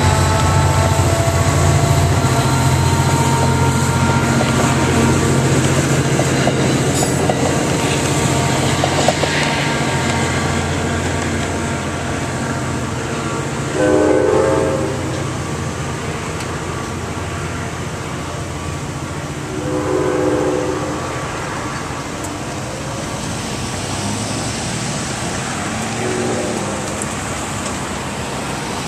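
NJ Transit diesel train pulling away from a grade crossing: its low engine drone is loud at first and fades over about ten seconds while the crossing bells ring. Later a horn sounds briefly three times, about six seconds apart.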